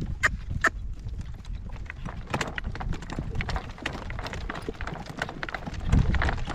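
A Morgan gelding's hooves beating at a working trot while he is driven in harness: a quick, even patter of hoofbeats over a steady low rumble.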